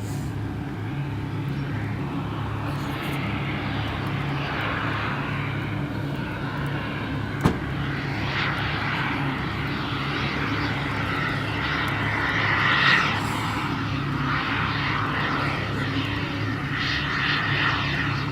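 Radio-controlled model aircraft engine running steadily overhead, swelling to its loudest as the model passes about twelve to thirteen seconds in. A single sharp click about seven seconds in.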